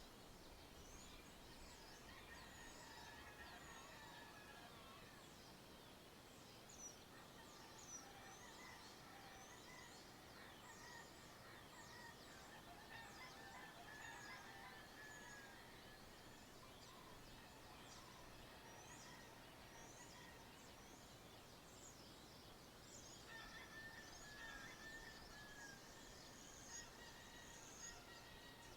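Faint dawn chorus of birds in the countryside: many short chirps and quick whistles, with longer whistled calls coming and going, over a steady background hiss.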